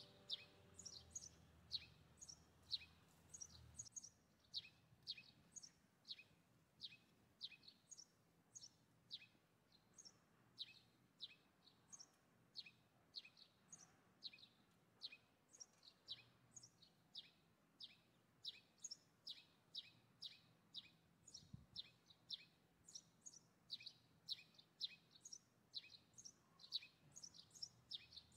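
Small birds chirping: short, high chirps that sweep downward, about two a second.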